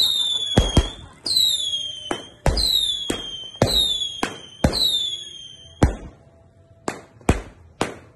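Aerial fireworks going off: sharp bangs mixed with five high whistles that fall in pitch, each about a second long, one after another. Near the end the whistles stop and a few separate bangs follow.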